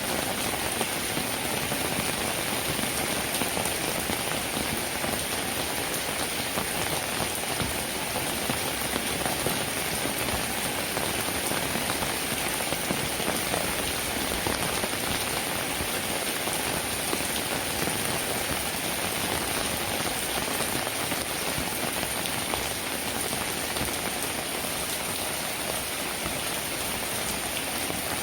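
Steady rainfall, an even, unbroken hiss of rain with no lulls or thunder.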